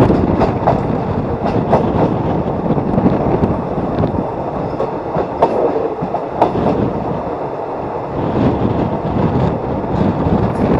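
Trains running past very close on both sides: the steady rumble of steel wheels on the rails, cut through by repeated sharp clicks of the wheels crossing rail joints. It eases a little in the middle and builds up again near the end.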